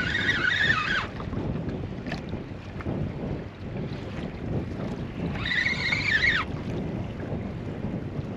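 Strong wind buffeting the microphone in a small open boat. Twice, about five seconds apart, a high-pitched sound that lasts about a second rises and falls over it.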